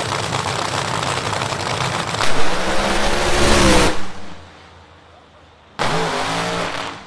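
Drag racing car engine running loud, then revving up with a rising pitch about two seconds in and cutting off sharply at four seconds; a second short burst of revving comes near the end.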